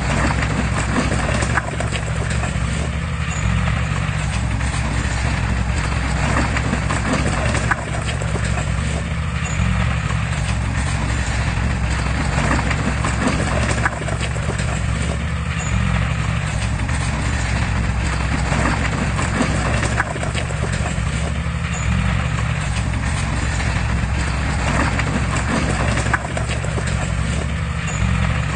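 Heavy diesel machinery running steadily: a low engine rumble under a continuous rattling clatter, with the pattern repeating about every six seconds.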